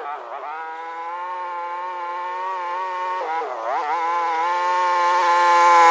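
Small vehicle engine running steadily while towing a chain drag. Its pitch sags and recovers twice, as if briefly bogging under load. It grows louder near the end.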